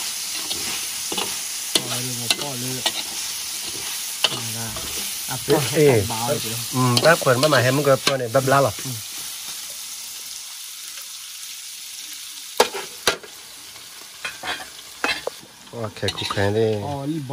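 Meat sizzling as it is stir-fried in a large wok, a metal spatula scraping and knocking against the pan. The sizzle dies down after the first half, leaving a few sharp knocks of the spatula on the wok.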